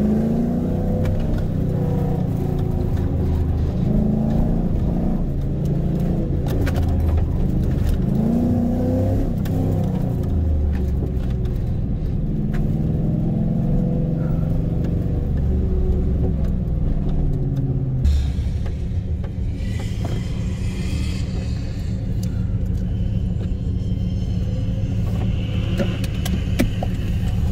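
Fourth-generation Chevrolet Camaro's engine revving up and down as it is driven hard through an autocross course, its pitch rising and falling with each acceleration and lift. About eighteen seconds in it settles to a steadier, lower running sound.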